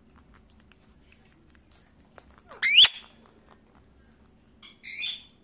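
Pet parakeet giving one loud, sharply rising whistle about halfway through, then a short chirping call near the end, with faint ticks before them.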